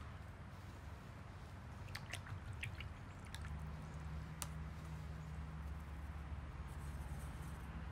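A watercolour brush dipped and worked in water and paint on a palette, with a few small light taps and clicks between about two and four and a half seconds in, over a steady low hum.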